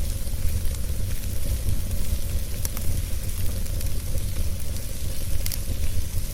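Wood fire burning, a steady rush with a low rumble and scattered sharp crackles and pops.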